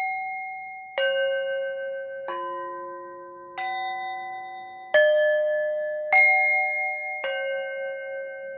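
Bell-like chime tones struck one at a time, six strikes about a second and a quarter apart, each a different pitch and ringing on under the next, as slow meditation music.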